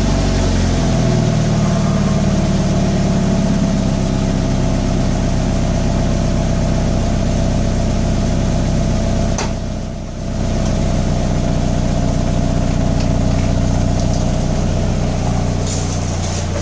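Stock exhaust of a 2015 Subaru BRZ's 2.0-litre flat-four (boxer) engine settling back from a light rev and idling steadily. There is a sharp click and a brief dip in level about ten seconds in.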